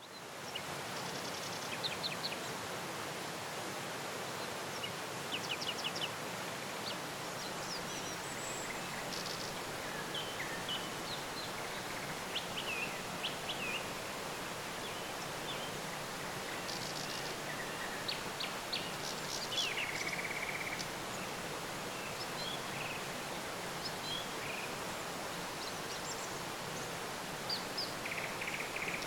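Outdoor nature ambience: a steady, even rushing background noise with many short bird chirps and brief calls scattered through it. It fades in at the very start.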